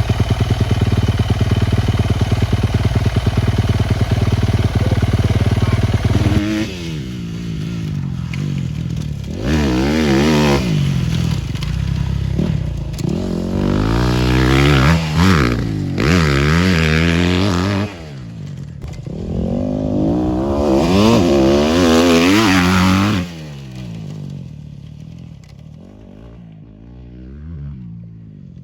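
Dirt motorcycle engine held at steady high revs for the first six seconds or so. It then revs up and down repeatedly, rising in pitch and dropping back several times, and fades away near the end.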